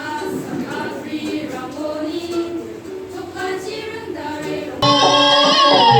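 A group of voices singing together. About five seconds in it cuts abruptly to louder, clearer music with singing.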